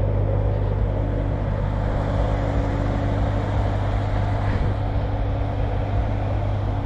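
An engine running steadily at idle, a low even hum with no change in pitch.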